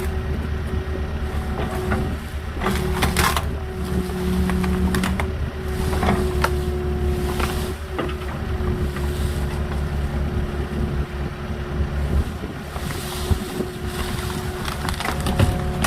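Small agricultural excavator's diesel engine running steadily under load, with scattered knocks and clatters as it works.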